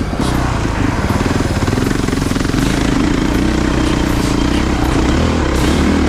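Honda CRF450RX dirt bike's single-cylinder four-stroke engine running while being ridden, its pitch wavering up and down with the throttle.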